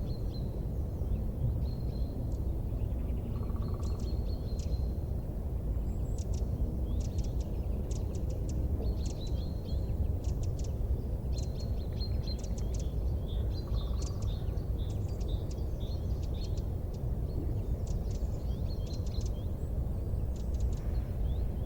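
Wood fire crackling: a steady low rumble with many small, sharp crackles throughout. Short high chirps like bird calls come and go over it.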